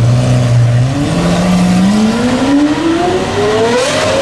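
Lamborghini Aventador's naturally aspirated V12 with a decatted exhaust holding a steady low note for about a second, then accelerating hard, its pitch rising steadily for about three seconds.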